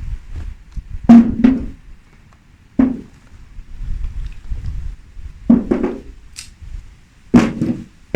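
Pieces of split firewood knocking together as they are dropped onto a pile. About seven hollow wooden knocks come at irregular intervals, some in quick pairs.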